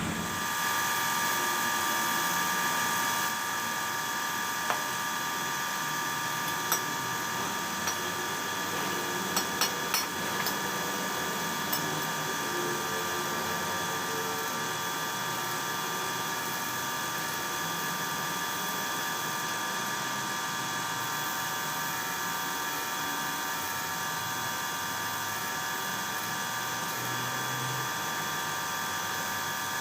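A power tool running steadily with a high, even whine, a little louder for the first three seconds. A few sharp clicks come between about five and twelve seconds in.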